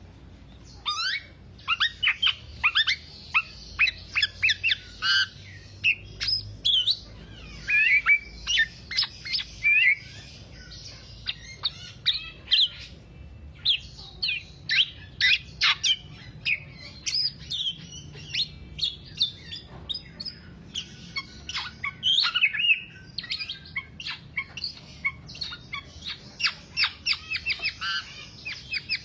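Black-naped oriole (kepodang) singing in a fast chatter of sharp, quick downward-sweeping notes, coming in bursts separated by short pauses.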